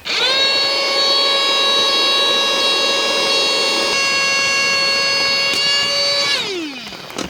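Small electric motor, such as a cordless power tool or a battery air pump, spinning up with a quick rise in pitch. It runs with a steady whine for about six seconds, then winds down with falling pitch near the end.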